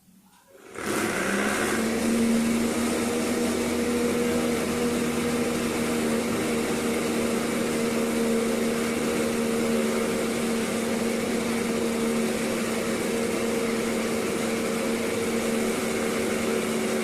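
Small motor of a homemade vacuum cleaner switching on about a second in, spinning up quickly, then running steadily with an even hum.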